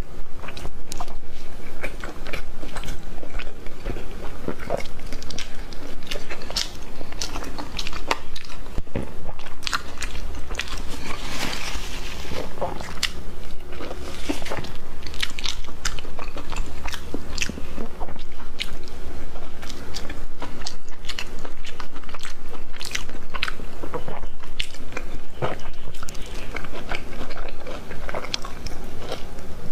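Close-miked mukbang eating: a person biting and chewing braised meat held in the hand. Many sharp, irregularly spaced mouth clicks and smacks run throughout.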